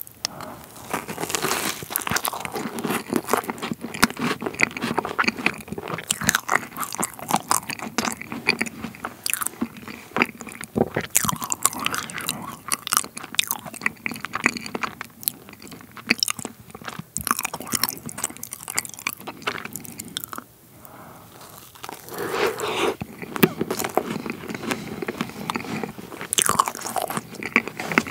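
Close-miked biting and chewing of pavlova: crisp meringue crunching and crackling among soft cream, in a dense run of small crunches with a short quieter pause about twenty seconds in.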